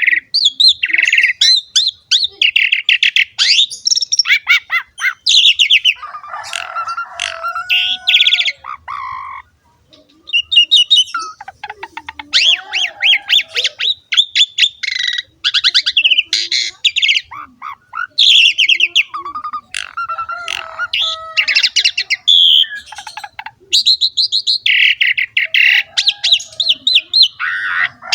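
Black-collared starling (jalak suren) singing in full voice: loud, varied phrases of rapid chirps and trills mixed with lower whistles and harsh notes, with a short break about ten seconds in.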